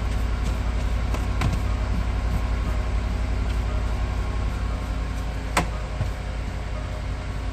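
Car engine idling steadily just after being started, with a few light clicks, a sharper one about five and a half seconds in.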